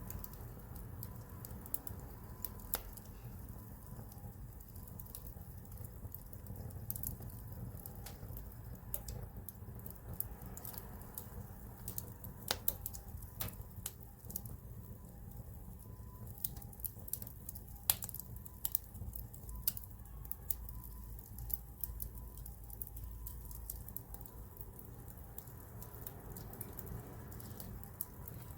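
Wood campfire crackling: irregular sharp pops and snaps, a couple of them louder, about 12 and 18 seconds in, over a steady low rumble.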